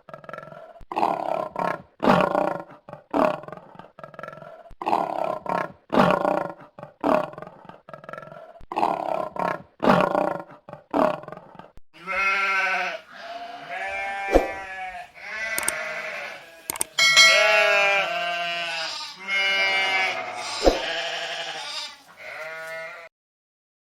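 Donkey braying: a run of short, rasping calls about once a second, then from about halfway longer pitched calls swinging between low and high.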